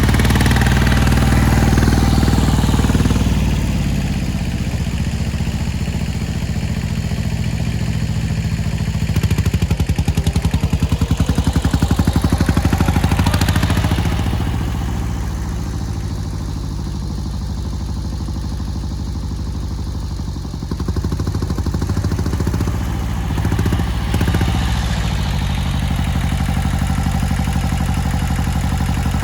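Kubota L175 tractor's two-cylinder Z750 diesel engine running steadily. It swells louder twice, in the first few seconds and again around halfway through, then settles back.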